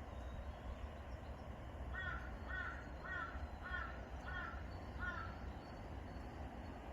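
A crow cawing six times in a quick, even series, over a low steady rumble.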